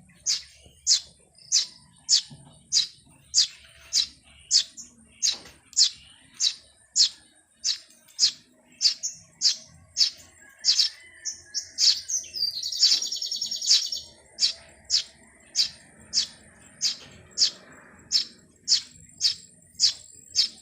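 Birds chirping: one short, high, downward-sweeping note repeated steadily about every half second, with a brief burst of fast chattering a little past the middle.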